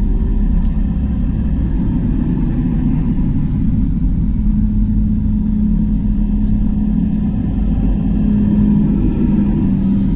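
Diesel tractor engines running as a convoy passes, a steady low rumble; about four and a half seconds in, one engine's steady hum comes up over it.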